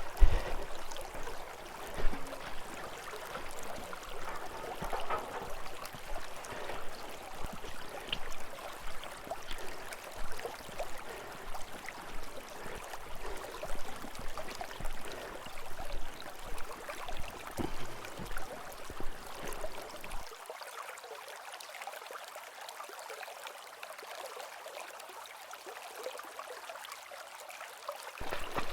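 Kasilof River water flowing and rippling as an even rush, with small irregular peaks through it. For the last several seconds it turns quieter and thinner.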